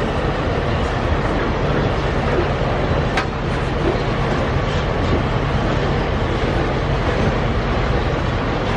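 Loaded iron-ore freight train rolling past: a steady, loud rumble of steel wheels on rail, with one brief sharp sound about three seconds in.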